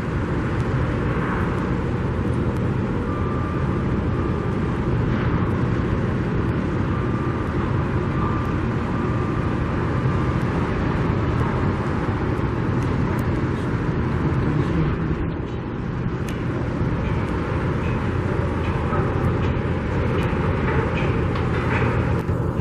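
Steady outdoor rumble and hiss of vehicle traffic, with a faint high tone that comes and goes twice in the first half.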